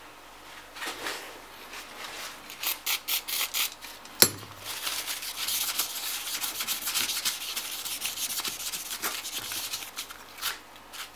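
Wiping and scrubbing the graphics card's heatsink clean of residue: a few short rubbing strokes, a sharp tap about four seconds in, then several seconds of steady scrubbing, and a few more short strokes near the end.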